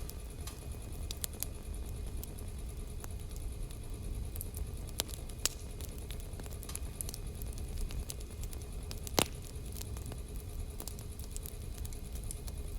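Burning wood crackling, with a steady run of small snaps and pops; one louder pop stands out about nine seconds in, over a constant low rumble.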